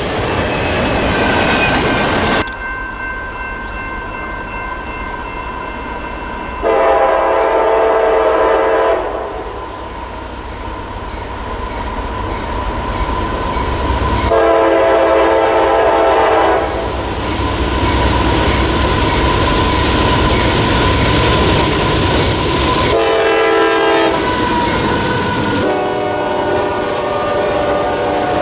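Locomotive horn sounding the grade-crossing signal over the rumble of a moving train: two long blasts, a short one, and a final long one, each a chord of several notes.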